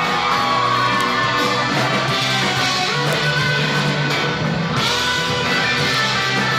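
Live band playing an instrumental break, with strummed electric guitar over bass and drums.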